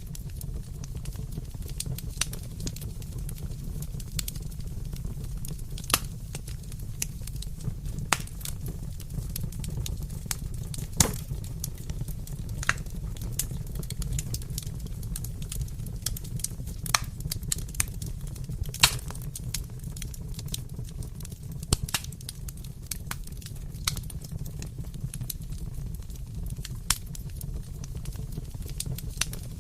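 Wood fire crackling in a fireplace: a steady low rumble of burning with sharp, irregular pops and snaps every second or so, a few of them louder than the rest.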